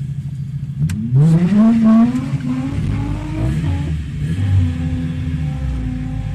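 Mazda MX-5's four-cylinder engine running low, then revving up about a second in, its pitch climbing for about a second before it settles to a steady note. A short click sounds just before the rev.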